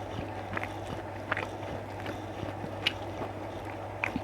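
A person chewing food close to the microphone, with scattered short wet mouth clicks over a steady low hum.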